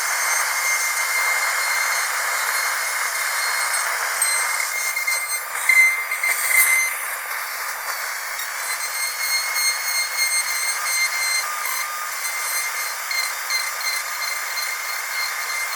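Dental drill whining steadily at a high pitch over an airy hiss, with a louder, uneven stretch about six seconds in.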